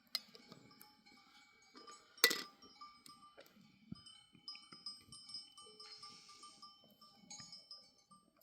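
Bells hung on grazing sheep tinkling and clinking irregularly as the flock moves, several different pitches overlapping. A sharp, loud clank about two seconds in.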